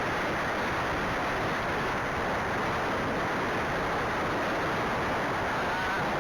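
Steady wind noise rushing over the microphone of a rider's camera while on horseback, an even roar with no distinct beats.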